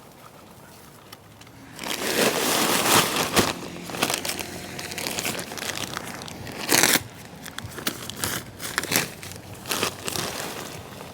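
Bags of marble-chip gravel being handled and emptied into a hole: a loud, irregular rush of bag noise and spilling stones starts about two seconds in, with a few sharp knocks along the way.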